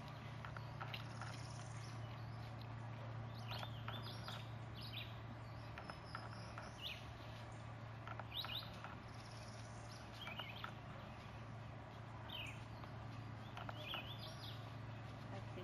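Birds chirping in short, scattered calls, with a faint steady low hum underneath.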